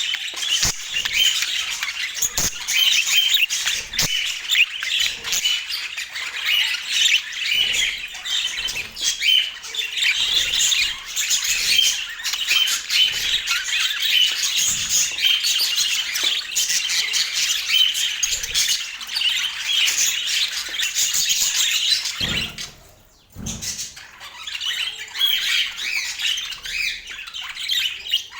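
Budgerigars chattering with dense, overlapping chirps and squawks, a continuous warbling flock chatter that briefly thins out near the end before resuming.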